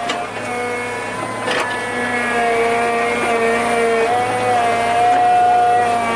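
Small engine running at high, steady revs, its pitch drifting slightly, with a couple of short knocks in the first two seconds.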